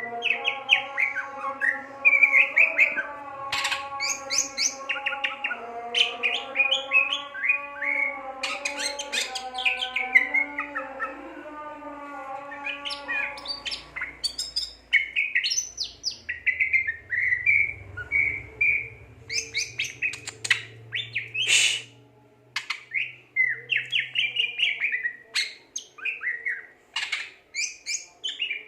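A cucak ijo (greater green leafbird) singing continuously in full voice: a fast, varied run of chirps, trills and whistled phrases. Low held tones change pitch in steps beneath the song for about the first half.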